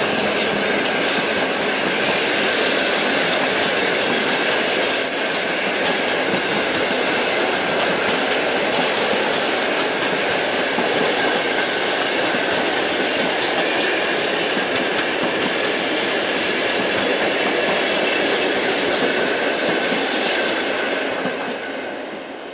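Passenger coaches of a train rolling past on the track with a loud, steady rumble of wheels on rails. The sound fades out near the end.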